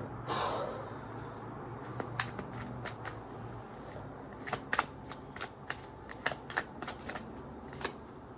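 Tarot cards being shuffled and handled: a short swish of cards about half a second in, then a run of sharp, irregular clicks and snaps of cards.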